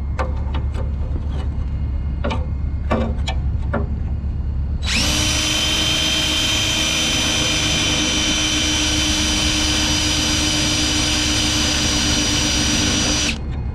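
Cordless DeWalt drill drilling steel. It starts about five seconds in, runs at one steady pitch for about eight seconds, then stops. Before it, a few light knocks over a low steady rumble.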